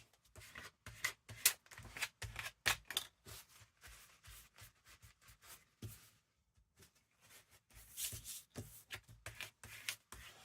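Paper and card being handled on a craft table: quick rustles, light taps and clicks, with a short pause about six seconds in.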